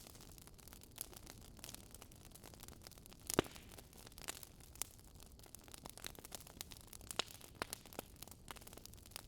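Campfire crackling: irregular pops and snaps of burning wood over a faint steady hiss, with one sharper pop a few seconds in.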